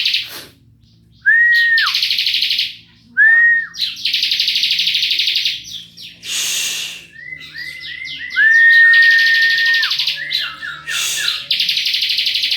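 Lovebird ngekek: long, loud, rapid chattering trills repeated one after another with short gaps between them. These are mixed with a few clear whistled notes that hold steady and then drop at the end.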